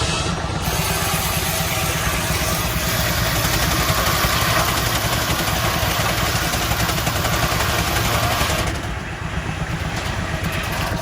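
An engine running with a steady low beat. Over it, from about half a second in until near nine seconds, comes a loud high rasping hiss that then stops.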